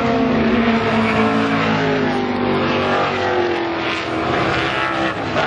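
A pack of classic racing cars at full throttle, several engines heard at once, their pitches sliding down as the cars go by.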